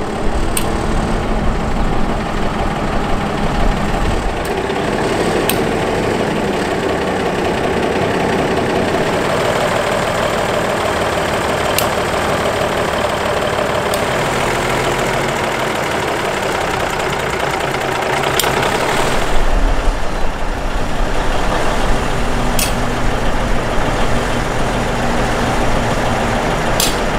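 A train heard from on board: a steady rumble of engine and running gear, with a few sharp clicks spaced several seconds apart.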